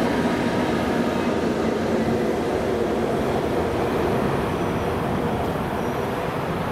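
Passing NJ Transit electric train, its trailing electric locomotive going by last: a steady rumble of wheels on rail that slowly fades as the train moves away.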